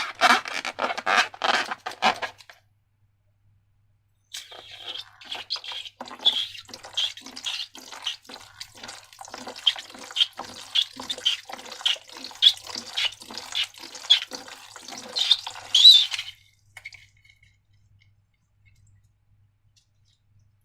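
Slime being worked by hand, squelching and clicking wetly in a quick flurry, then after a short pause in steady, rhythmic strokes somewhat under two a second with small squeaks.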